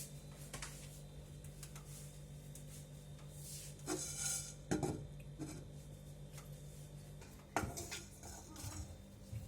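Whole spices dry-roasting in a hot pan while a utensil stirs them, with a few short scrapes and rattles about four, five and eight seconds in. A steady low hum runs underneath.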